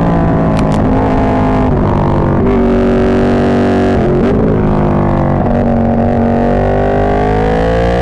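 Ducati 1299 Panigale's Superquadro L-twin engine running through an Austin Racing GP2 full exhaust system while riding, heard close to the exhaust, where it overloads the microphone. The engine note changes pitch about two and a half seconds in and again about four seconds in, sinks midway, then climbs steadily near the end.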